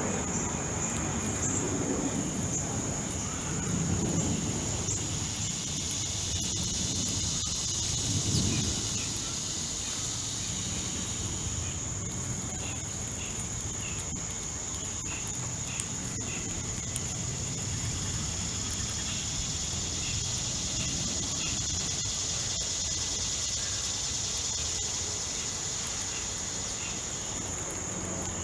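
Steady high-pitched insect drone, crickets, with a low rumble in roughly the first third and faint short chirps repeating through the second half.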